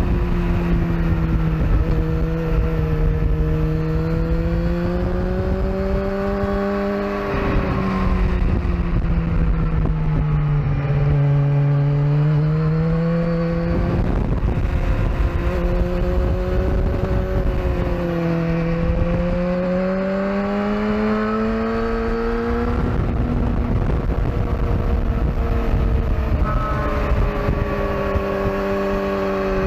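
Sportbike engine at speed on a race track, recorded onboard. Its pitch climbs and falls over several seconds at a time as it accelerates and slows through corners, with a few sudden breaks in the note, over heavy wind rumble.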